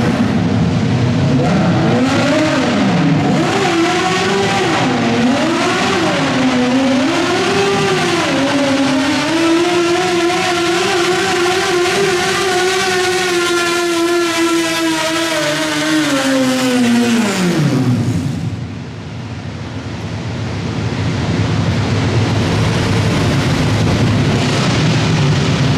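Modified garden pulling tractor's engine under load, its revs rising and falling unevenly for several seconds, then climbing and held high and strained for about eight seconds. The revs drop away steeply about 18 s in, and the engine runs on steadily at a lower speed.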